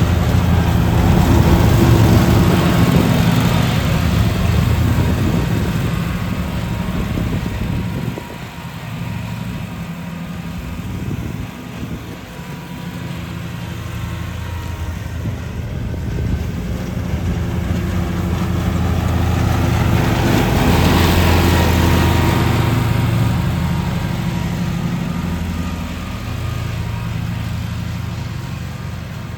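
Lawn mower engine running steadily, growing louder and fainter as the mower passes nearer and farther away: loudest near the start and again about two-thirds of the way through.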